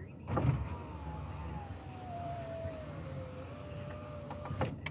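Car's electric window motor running for about four seconds: a whine that slowly falls in pitch, with a clunk as it starts and another as it stops.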